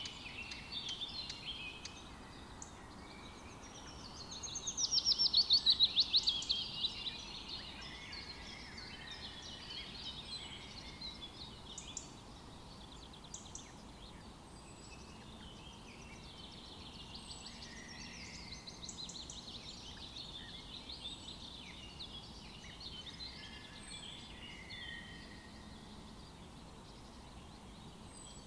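Several songbirds singing and calling together over a faint steady hiss of forest ambience. A loud, rapid trill comes about four seconds in and lasts about three seconds. A short, high chip repeats every second or so.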